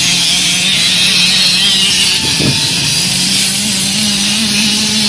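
Small children's motocross bikes running in a race, a steady engine buzz with a brief dip and bend in pitch about two and a half seconds in.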